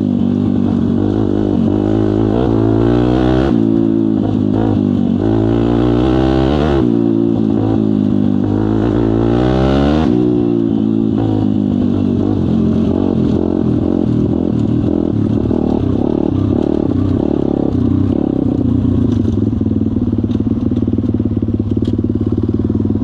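Kayo pit bike's single-cylinder engine revving up and falling back several times in the first ten seconds or so, then running at a steadier pitch.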